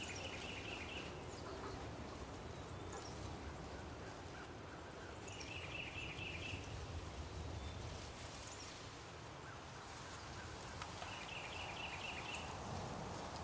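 Low, steady outdoor background noise with a bird repeating a short, rapid trill three times, about every five and a half seconds.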